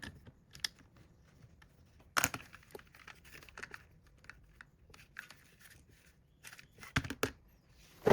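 Hands working with small parts and tools: scattered light clicks, scrapes and rustles, with a sharp click about two seconds in and a quick cluster of clicks near the end.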